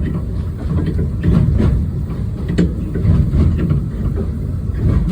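Train running: a steady low rumble with scattered sharp clicks from the wheels on the rail.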